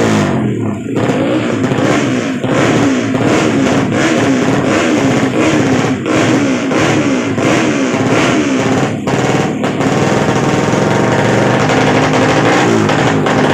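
Drag-racing motorcycle engine revving hard, its pitch rising and falling again and again in quick blips.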